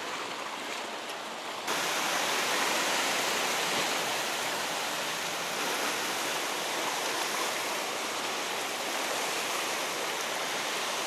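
Sea surf washing steadily over a rocky shore, with no distinct crashes. It steps up in loudness about two seconds in and then holds even.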